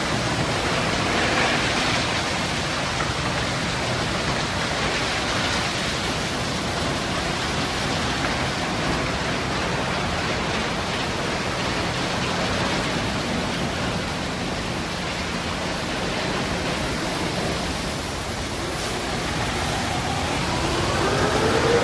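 Automatic tunnel car wash running: a steady hiss of water spray and wash equipment. Near the end a pitched whine rises and then holds steady.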